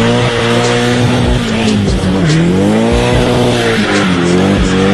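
Car tyres squealing over a running engine: one continuous high whine that dips in pitch twice and climbs back.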